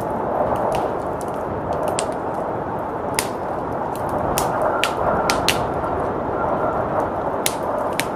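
Wood fire crackling with sharp, irregular pops over the steady rush of blizzard wind.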